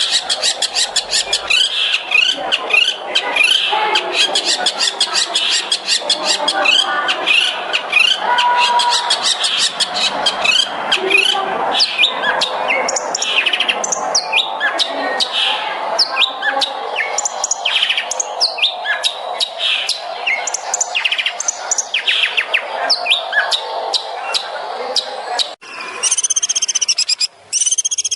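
Long-tailed shrike (cendet) singing a fast, dense song of rapid repeated chirps and trills. Near the end the sound cuts off abruptly and a different series of repeated arching calls takes over.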